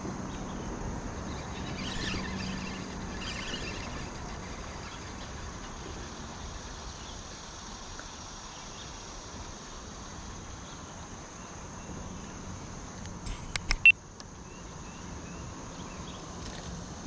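Insects trilling steadily in a high, even chorus over a low background hiss. About three-quarters of the way through comes a quick run of sharp clicks.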